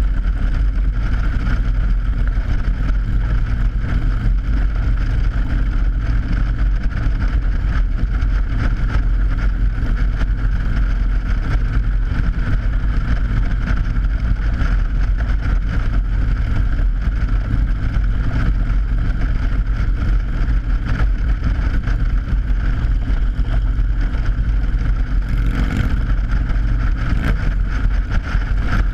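Motorcycle riding steadily over a steel grate bridge deck: a steady low engine and road rumble with a constant hum from the tyres on the grating. There is a brief swell in the noise about 25 seconds in.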